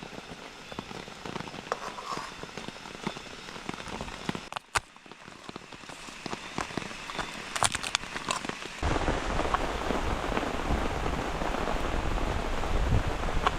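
Heavy rain falling, with many separate drops pattering. About two-thirds of the way in, after a brief drop-out, it becomes louder and denser, with a low rumble of wind on the microphone.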